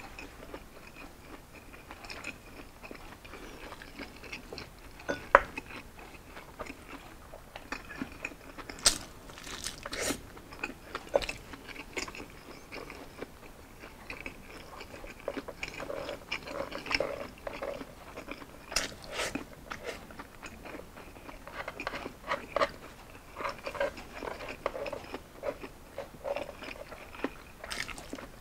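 Close-miked eating of crispy roasted pork belly (liempo): irregular sharp crunches as the crackling skin is bitten, between stretches of chewing. The loudest crunch comes about five seconds in.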